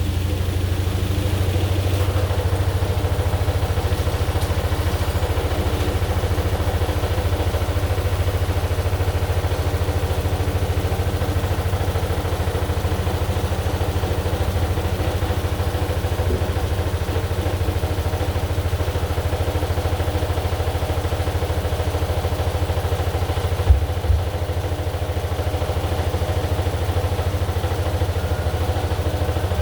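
AQUA AQW-DX12M drum washing machine running with a steady low hum and motor tone, with one short knock about 24 seconds in.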